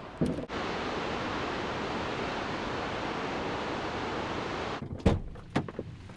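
Steady rushing of a powerful waterfall, cutting off abruptly about four seconds in, followed by a low thump and a few light clicks.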